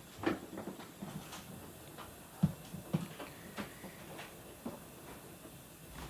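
Pigeon pecking at food: a run of irregular sharp taps of its beak, about one or two a second, the loudest about two and a half seconds in.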